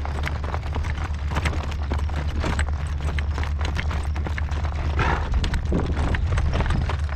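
Horse's hoofbeats clip-clopping steadily as it pulls a cart, over the low rumble of wind on the microphone.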